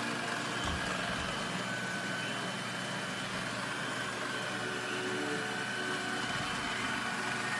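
Robot vacuum running steadily, a constant motor hum with a faint high whine.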